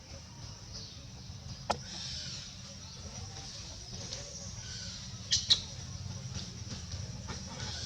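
Outdoor background with a steady low rumble and faint high-pitched squeaks, broken by three sharp clicks: one just under two seconds in, then a quick pair at about five and a half seconds, the loudest sounds here.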